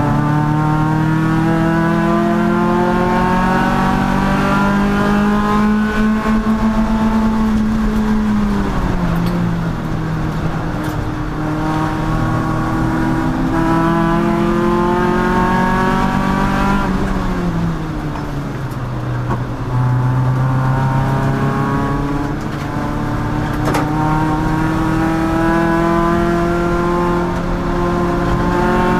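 Race car engine running hard under load, its pitch climbing slowly. The revs fall away twice, about eight and eighteen seconds in, then climb again.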